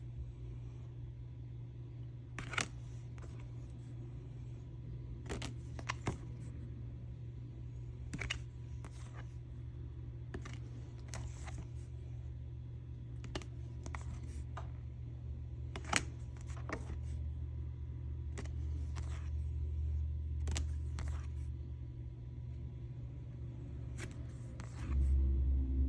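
Oracle cards being handled and turned over one by one: scattered soft taps and snaps every second or few over a steady low hum.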